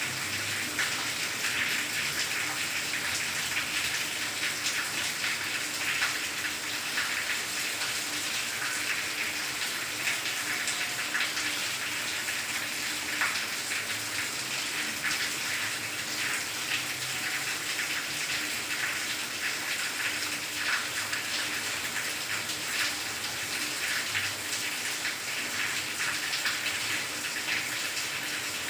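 Steady rain falling on leaves and grass: an even hiss made up of many small drop impacts, holding at the same level throughout.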